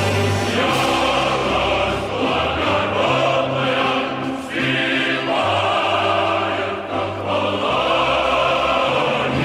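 Choral music with orchestra: a choir holding slow, solemn chords over deep bass notes that change about every second.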